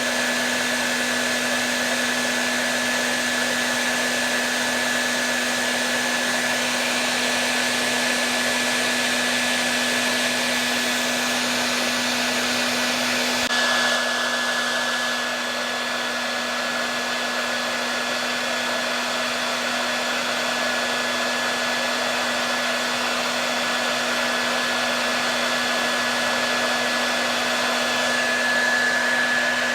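Hair dryer running continuously: a steady rush of air with a low hum and a thin high whine. The tone shifts slightly and the level dips a little about halfway through.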